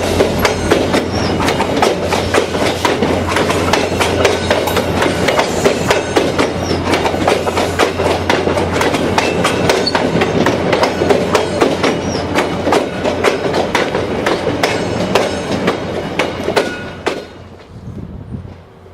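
VIA Rail passenger train passing close by: rapid, uneven clickety-clack of its wheels over the rail joints with a steady rumble. The sound drops away sharply about 17 seconds in as the end of the train goes by.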